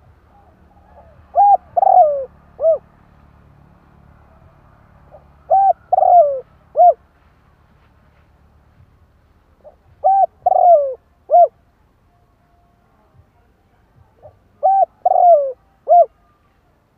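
Spotted dove cooing: four phrases about four seconds apart, each of three notes, the middle one longer and falling in pitch.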